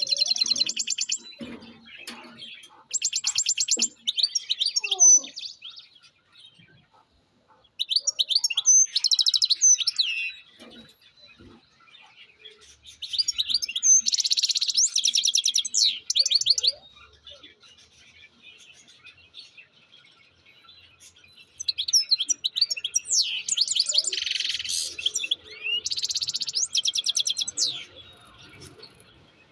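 European goldfinch singing: about five bursts of rapid, high twittering trills and chattering notes, separated by short pauses.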